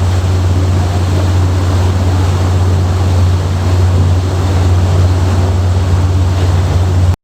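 Sightseeing boat under way: its engine holds a steady low drone beneath a constant rush of water and wind.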